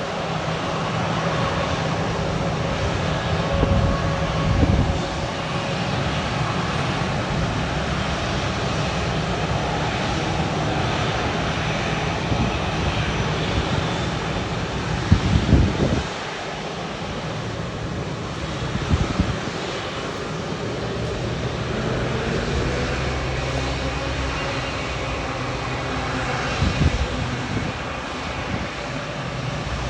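Jet airliner engines running, a steady loud rush with a faint whine that slowly shifts in pitch. Several brief low thumps of wind or handling on the microphone.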